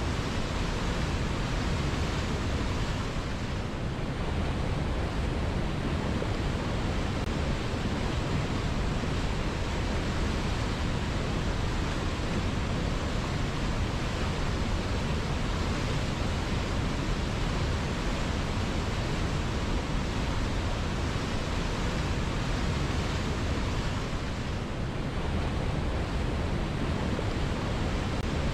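A river flowing steadily, a continuous rushing of water with no breaks.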